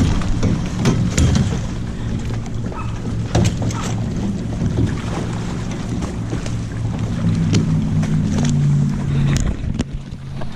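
Wind buffeting the microphone aboard a small sailboat under way, with water moving against the hull and scattered light knocks.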